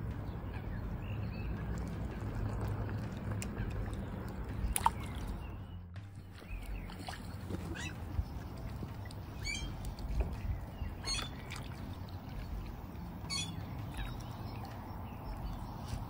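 Outdoor lakeshore sound: a low steady rumble, with one sharp click about five seconds in. After a sudden break, short high chirping bird calls come every couple of seconds.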